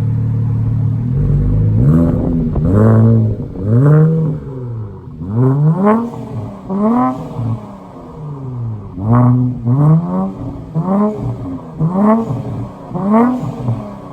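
2019 Infiniti Q50's 3.0-litre twin-turbo V6 running through a Kinney's Street Demon performance dual exhaust. It idles steadily, then is blipped about ten times, each rev rising and falling in pitch.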